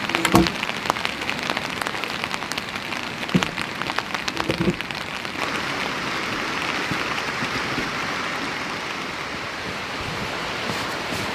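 Heavy rain. Large drops tap loudly and irregularly on a nearby surface for the first five seconds or so, with a few louder knocks, then the rain settles into a steady, even hiss.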